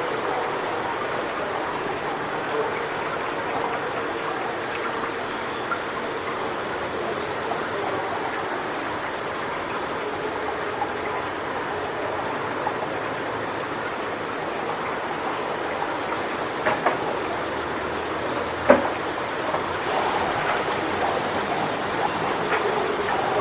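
Strong wind rustling through coconut palm fronds: a steady, even rushing hiss, with a sharp click a little past three quarters of the way through.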